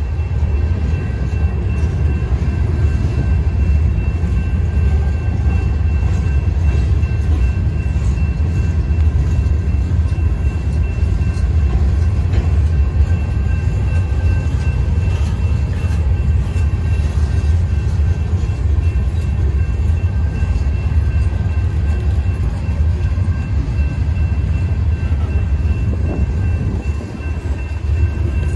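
Loaded ballast cars of a Union Pacific freight train rolling steadily past: a continuous low rumble of steel wheels on the rails, with two faint steady high tones above it.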